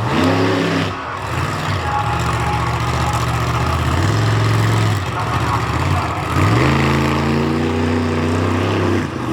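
Monster truck engine running under load, its pitch climbing sharply twice, about a quarter second in and again around six and a half seconds in, with a steady low drone between.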